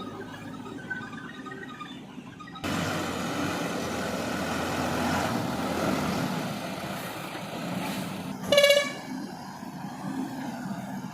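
Brief background music, cut off suddenly by the steady noisy running of diesel earthmoving machinery. About two-thirds of the way in, a vehicle horn gives one short, loud toot, the loudest sound here.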